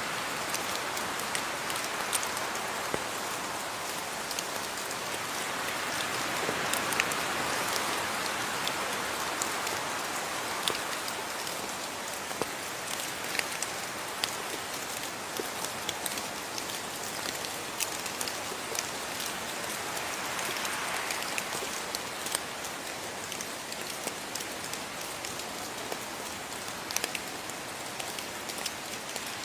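Steady rain: an even hiss of falling rain with many individual drops ticking sharply on a surface.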